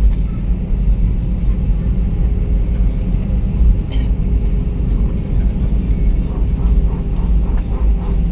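Steady low rumble inside the cabin of an Airbus A320-214 on the ground just after landing, from its CFM56 engines and the rolling airframe. A faint click comes about four seconds in.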